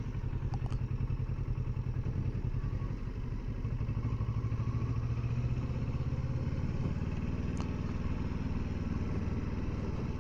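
Kawasaki Versys 650 motorcycle's parallel-twin engine running steadily while riding along, dipping slightly about three seconds in.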